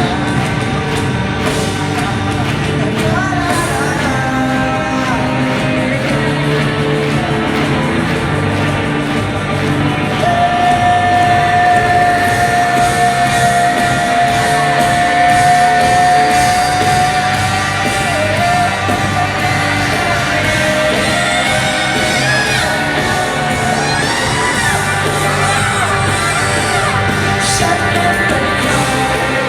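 Live rock band music with singing, heard through a large hall, with shouts over it. About ten seconds in, a single high note is held steady for several seconds before the music moves on.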